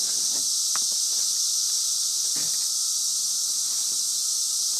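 A dense chorus of cicadas calling outdoors: one steady, unbroken high-pitched buzz.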